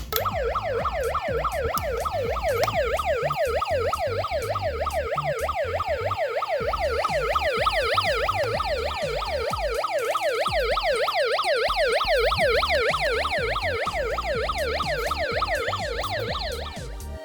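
Electronic siren of a battery-powered toy vehicle, sounding a fast up-and-down yelp at several sweeps a second. It cuts off near the end.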